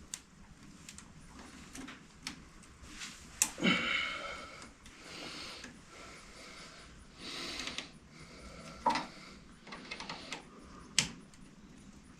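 Scattered metallic clicks and clinks of hand tools and metal parts being handled, with a few sharper knocks and some rustling between them.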